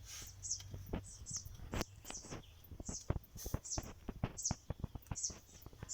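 A small bird chirping repeatedly, about two short high chirps a second. Many sharp taps and clicks come in between, the loudest about three seconds in.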